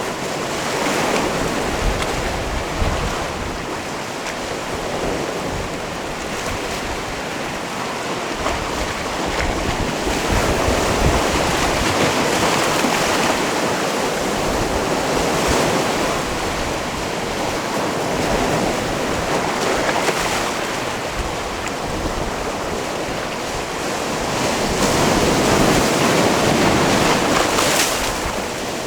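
Sea waves washing onto a rocky shore: a continuous surf wash that swells and eases, growing louder about ten seconds in and again near the end, with some wind buffeting the microphone.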